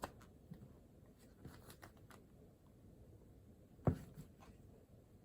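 Faint desk sounds of a pen writing on paper: scattered light ticks and short scratches, with one sharper knock about four seconds in.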